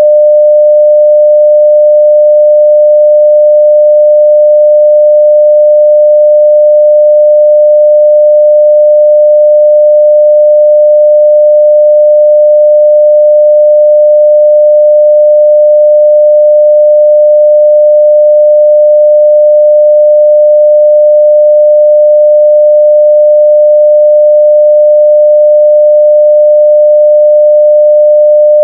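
A steady 600 Hz sine-wave test tone at full level (0 dB), unbroken and unchanging in pitch and loudness.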